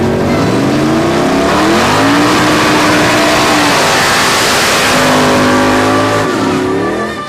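Race car engine accelerating hard, its pitch climbing and dropping back several times as it shifts up through the gears, with a loud rushing noise over it.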